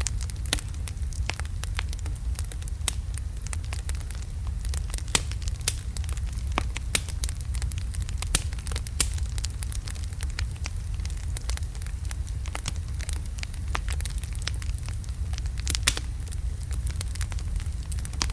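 Wood fire of large logs burning in a fireplace, crackling with irregular sharp pops over a steady low rumble of the flames.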